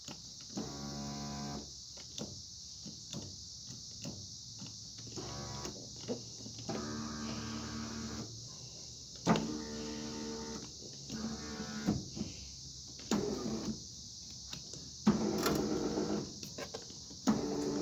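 A small electric motor run in short bursts of about a second each, about eight times, each a steady whir that starts and stops abruptly. Crickets chirp steadily underneath.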